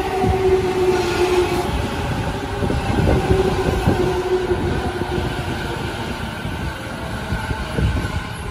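Electric commuter train pulling out along the platform, with a steady electric motor whine and the wheels knocking over rail joints several times.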